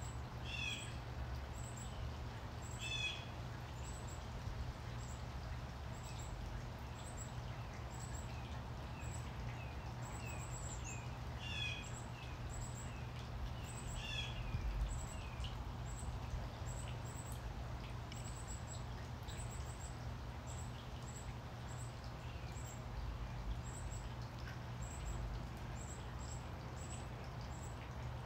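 Birds chirping in a garden: a short, high chirp repeated about once a second or a little faster, with a few louder, lower calls in the first half. A steady low rumble runs underneath.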